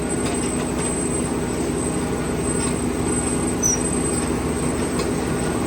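Potato harvester running steadily while lifting, its engine and elevator webs making a continuous drone with a constant low tone.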